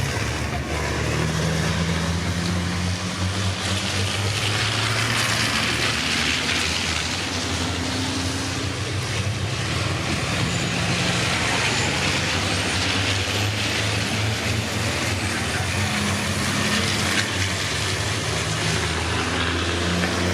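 Pack of racing trucks' diesel engines running hard at speed, their low engine notes holding and then stepping to new pitches every few seconds.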